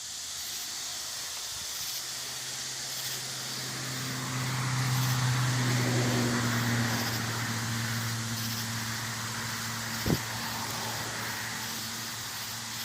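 A motor vehicle's engine hum drawing near and passing, swelling about four seconds in and slowly fading, over a steady hiss. A single sharp click about ten seconds in.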